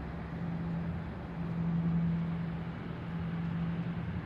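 Steady engine noise from a business jet's turbofans: a low drone with a constant hum under an even hiss, swelling a little about a second and a half in.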